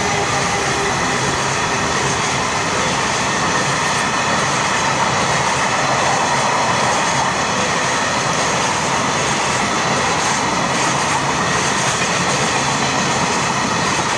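Freight train of tank wagons rolling past at speed: steady, loud wheel-on-rail noise.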